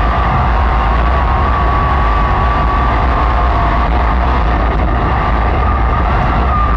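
Racesaver sprint car's V8 engine running at racing speed, a steady loud drone with a high tone that wavers slightly and never lets up.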